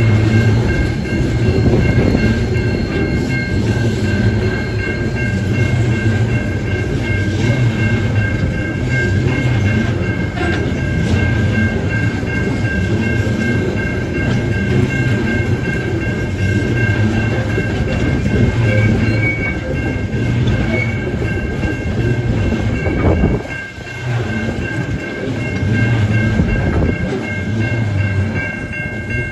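Container wagons of a Tasrail freight train rolling past at close range: a loud steady rumble with the wheels clacking over the rail joints, easing briefly about 23 seconds in. A steady high-pitched ringing runs over it throughout.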